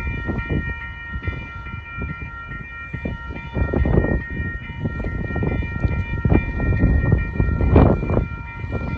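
Metra commuter train at a grade crossing by the station: a steady high whine from the train under an uneven low rumble that surges about four seconds in and again near the end.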